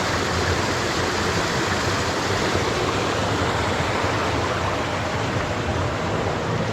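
Creek water rushing steadily and fairly loudly over rocks close to the microphone, with no breaks.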